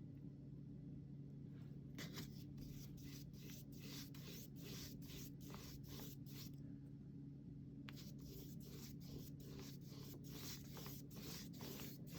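Flat paintbrush dragged in quick strokes of acrylic paint across canvas, about two swishes a second, in two runs with a short pause between them. A faint steady low hum lies underneath.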